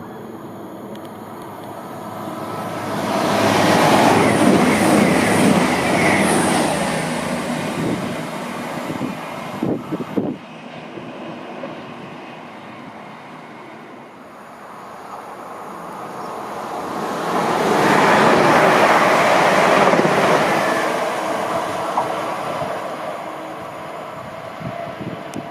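A train passing through the station, its wheels on the rails swelling to a loud rush and then fading. About ten seconds in there is a break, and a second train passes the same way.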